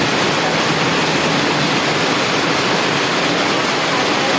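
Heavy rain falling, a loud, steady rushing hiss.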